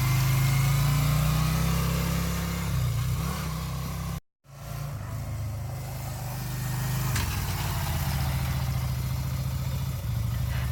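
Motorcycle engine running steadily. The sound cuts out completely for a moment about four seconds in, then the engine is heard again.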